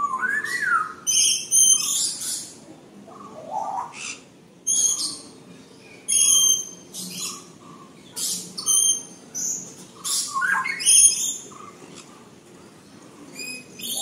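Birds calling: short, shrill, high-pitched calls repeated in bursts, with a few lower sliding notes among them.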